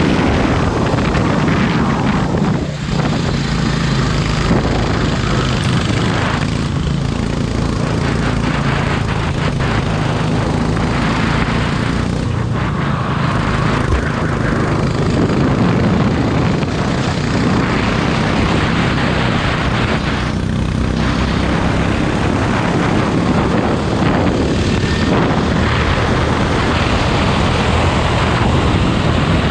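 Racing kart engine running hard at high revs, dipping briefly about five times as the throttle eases for corners, then pulling again.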